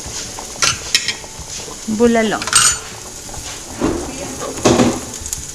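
Food sizzling in a frying pan while a utensil stirs and scrapes it, with a few clattering strokes against the pan.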